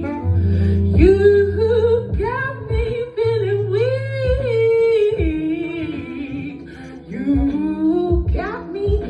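Live acoustic music: wordless sung vocal runs, rising and falling, over plucked guitar with deep held bass notes.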